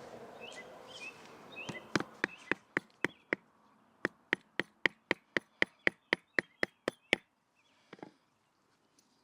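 Batoning wood: a stick baton knocks rapidly and evenly on a knife spine or wedge to split a piece of wood. About six quick knocks come first, then a brief pause and a dozen more, roughly four a second.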